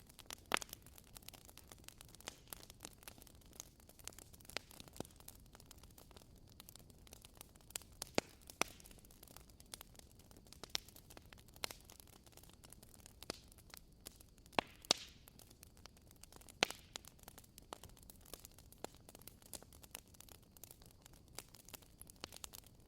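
Wood fire crackling: irregular sharp pops and snaps over a faint steady hiss, a few louder snaps standing out.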